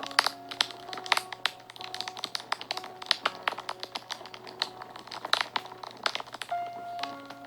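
Wood fire crackling and popping in quick, irregular snaps, over soft background music of long held notes.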